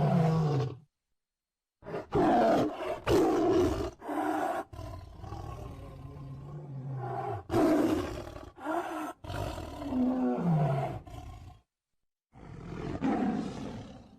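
Bengal tiger roaring and growling in a string of rough calls, some dropping in pitch, broken by two short gaps of dead silence where separate recordings are joined.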